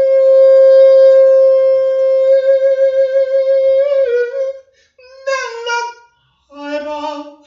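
A solo voice singing unaccompanied. It holds one long high note for about four seconds, wavering near the end, then sings two short phrases after brief pauses, the last on a lower note, and stops.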